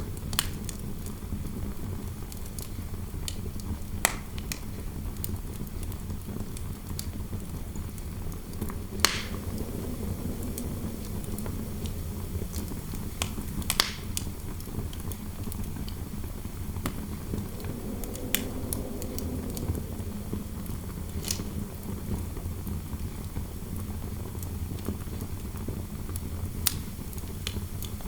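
Wood fire crackling in a fireplace, with a sharp pop every few seconds, over a steady low rumble of wind through the room. The wind swells into a soft howl twice.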